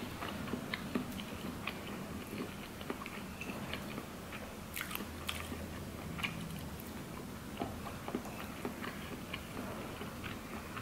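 A person chewing ramen noodles and tteokbokki rice cakes: quiet mouth sounds with many small, scattered clicks.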